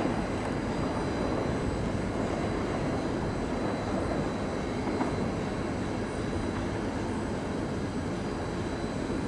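Shinkansen train running at the platform, a steady rushing noise with a faint high-pitched whine over it.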